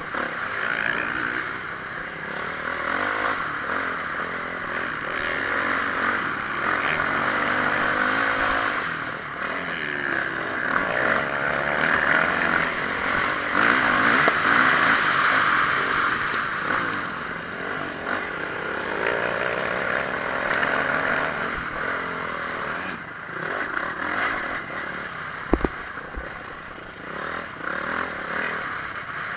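Honda CRF450R single-cylinder four-stroke motocross engine running hard in a race, its revs rising and falling continuously through gear changes and corners. There is a single sharp click near the end.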